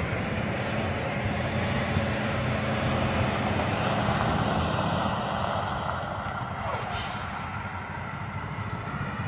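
Truck engine running with a steady low rumble and road noise while driving. A brief high squeak comes about six seconds in.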